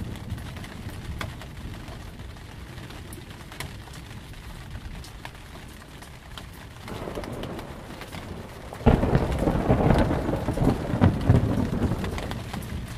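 Steady rain with scattered drop taps, then a thunderclap: a low rumble builds about seven seconds in, a sudden loud crack comes about two seconds later, and the thunder rolls on for a few seconds before dying away.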